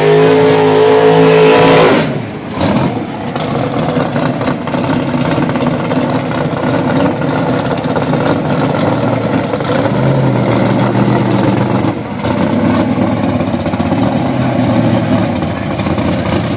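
Car engines revving hard under acceleration for about two seconds, then cutting away suddenly. A steady rushing noise follows, with fainter engine sound coming back briefly about ten seconds in.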